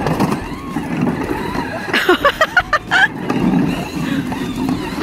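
Battery-powered ride-on toy vehicle running, its motor and plastic wheels rumbling over the ground. About two seconds in comes a quick run of short high-pitched sounds lasting about a second.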